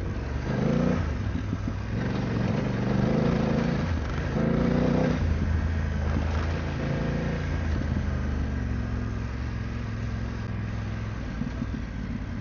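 BMW F900GS motorcycle engine on the move off-road, revs rising and falling over the first few seconds, then running steadier and lower, under a steady rush of wind and noise.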